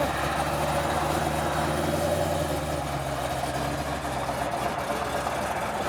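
Car engine idling steadily at low pitch; one of its low tones drops away about three seconds in.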